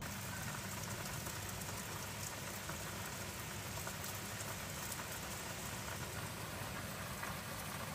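Heavy monsoon rain pouring steadily onto the foliage of a large banyan tree and the surrounding fields, an even hiss.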